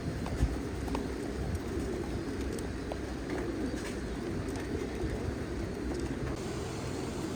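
Many domestic pigeons cooing together in a continuous overlapping chorus, with a few faint clicks scattered through it.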